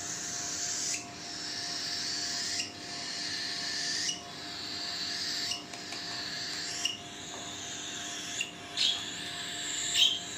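Lutino cockatiel chick's raspy, hissing food-begging call, repeated in an even rhythm about every second and a half, with a couple of louder, sharper calls near the end. The chick keeps begging like this while it is still hungry during hand-feeding.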